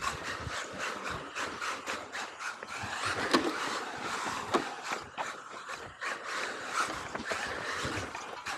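Tamiya XV-01 electric RC rally car running a stage on pavement: tyres scrabbling and scraping over the surface, with a stream of small clicks and knocks.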